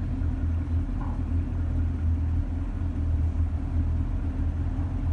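Car engine idling steadily, a low, even rumble with no revving.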